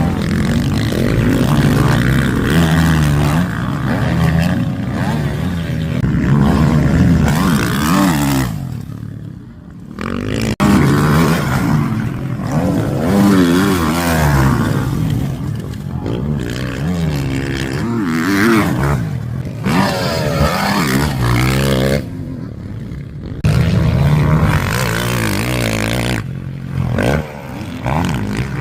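Motocross bikes racing, their engines revving up and falling back again and again as they accelerate and shift. The sound drops away sharply twice, at about nine seconds and again at about twenty-two seconds.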